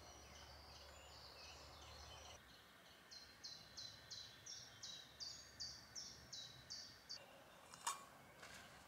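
Faint birdsong: a small songbird repeats one short high note about three times a second for some four seconds, after a few scattered high calls. A single sharp click comes near the end.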